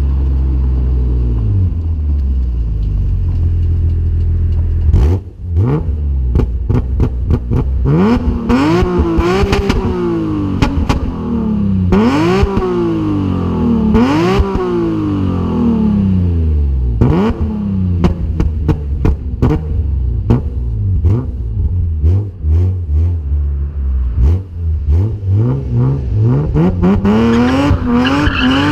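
BMW E36 M3 3.2 straight-six engine through a homemade exhaust. It runs at a steady low pitch for the first few seconds, then the revs climb and drop back sharply again and again, with short sharp cracks and pops in between.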